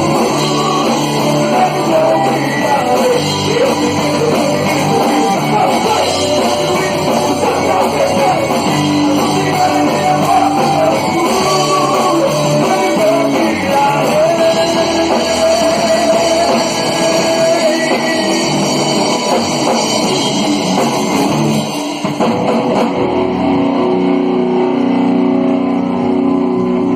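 Amateur band playing a rock version of a worship song live, with electric guitar, drum kit and singing. About 23 seconds in, the drums and cymbals drop out and the guitar carries on alone.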